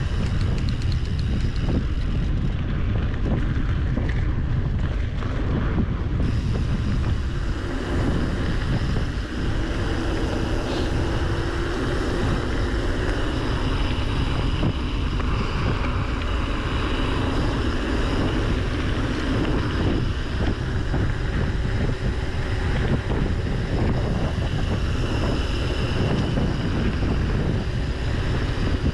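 Loud, steady wind buffeting the microphone of a camera on a mountain bike rolling downhill at speed, a constant low rumble.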